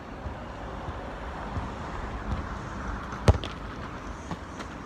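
Steady outdoor street background noise, with a single sharp thump a little over three seconds in.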